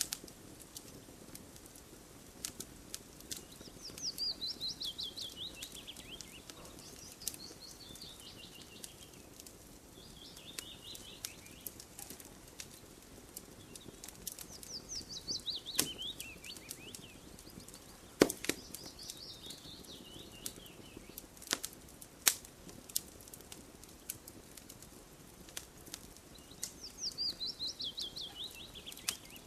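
Campfire crackling with scattered sharp pops, a couple of them louder. A songbird repeats a descending trilled song about five times, each phrase falling in pitch over two or three seconds.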